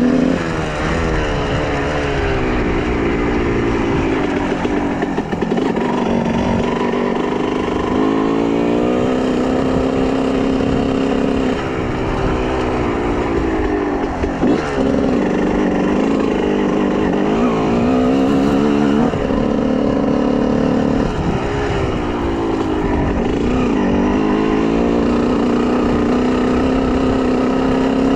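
Honda CR125R's two-stroke single-cylinder engine running under riding, its pitch climbing as it revs and dropping back several times with the gear changes and throttle.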